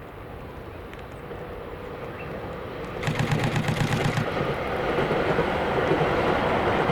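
A train approaching, its running noise growing steadily louder, with a sudden step up and a short stretch of fast rattling clatter about three seconds in.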